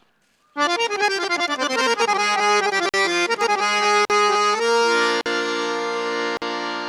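Background music: a melody of held notes on an accordion-like reed instrument, starting about half a second in after a brief silence.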